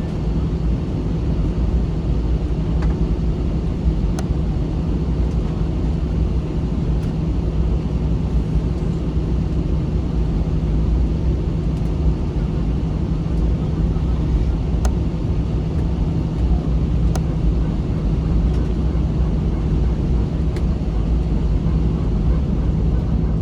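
Steady low drone and rumble inside the cabin of an Airbus A321 with its engines running on the ground, a constant hum under it and a few faint clicks.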